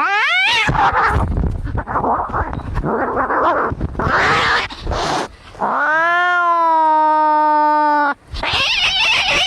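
Cats fighting: a short rising yowl at the start, harsh noisy stretches, then one long drawn-out caterwaul of about two seconds from about six seconds in, followed by more harsh noise.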